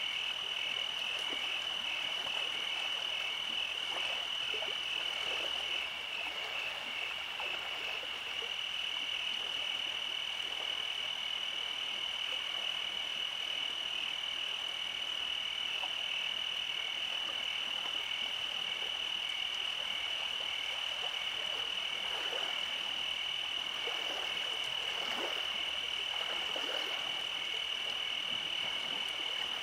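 Steady night-time chorus of calling frogs and insects: a continuous high-pitched trill with a rapidly pulsing layer just below it. A few faint rustles come through a little over twenty seconds in.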